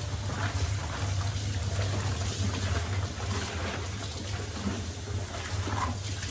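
Water running and trickling, as from a tap during cleaning, over a steady low hum.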